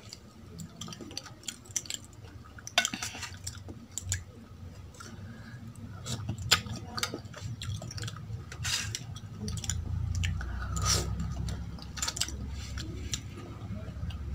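Close-miked chewing and wet mouth sounds of someone eating idli soaked in sambar, with many short sharp clicks and smacks. Fingers scoop sambar from a steel bowl about eight seconds in.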